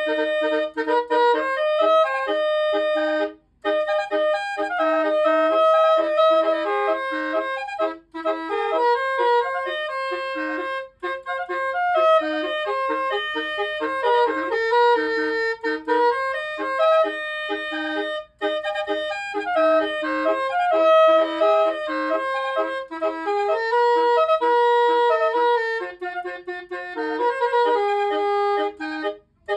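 Basuri musical horn playing a tune note by note, with a reedy, clarinet-like tone, stepping and sliding between pitches with a few short breaks between phrases.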